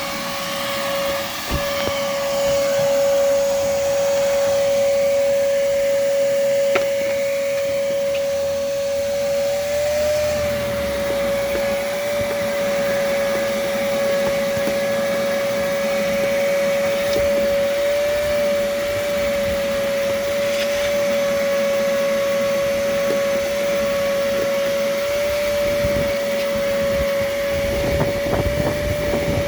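Vacuum cleaner running steadily while vacuuming a car, with a constant whine whose pitch wavers slightly now and then. A few clatters come near the end.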